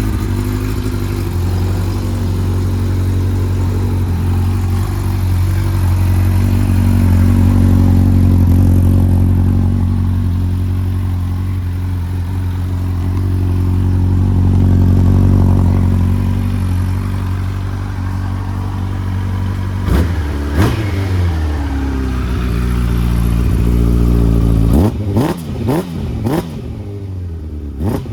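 Yamaha YZF-R1 (RN09) inline-four engine idling steadily through an aftermarket OVER Racing muffler, then blipped on the throttle. There are three short revs about two-thirds of the way through and a quick cluster of revs near the end, each rising and dropping back to idle.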